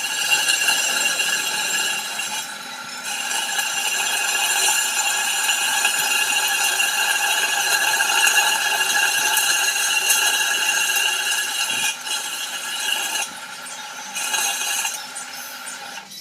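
Metalworking machinery running with a steady, high-pitched ringing whine made of many tones, briefly dropping away about two and a half seconds in and again near the end.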